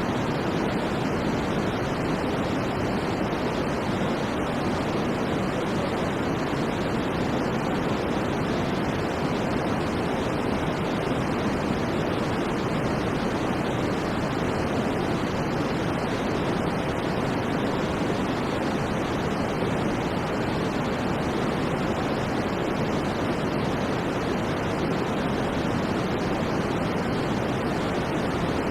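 Generated white noise for sleep: a steady, unchanging rushing hiss with no breaks or events, fuller in the low and middle range than bright on top.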